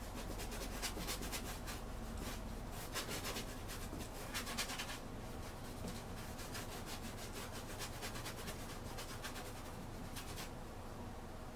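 Paintbrush scrubbing oil paint onto canvas in quick back-and-forth strokes, densest through the first half, then sparser with a short flurry near the end.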